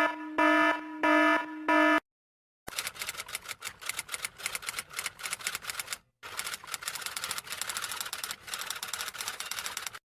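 A few short, evenly spaced electronic beeps ('peep peep peep') for the first two seconds. After a short gap comes a manual typewriter's keys clattering rapidly, with a brief pause about six seconds in.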